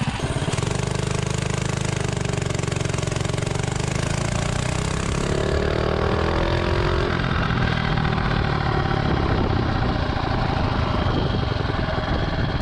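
Stage 2 Predator 212 Ghost single-cylinder four-stroke engine on a mini bike, running hard through an acceleration run, with its pitch rising about five to seven seconds in.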